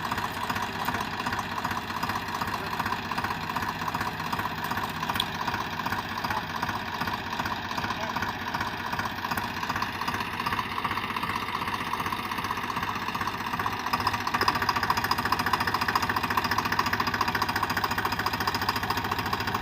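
Swaraj 735 FE tractor's three-cylinder diesel engine running steadily with an even rapid pulse, getting louder about fourteen seconds in.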